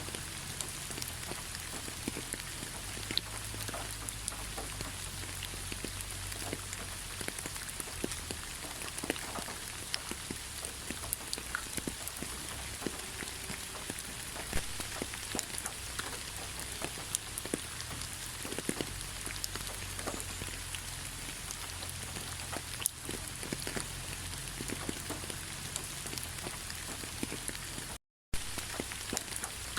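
Steady rain, with many separate drops ticking on a surface over an even hiss. It cuts out completely for a fraction of a second near the end.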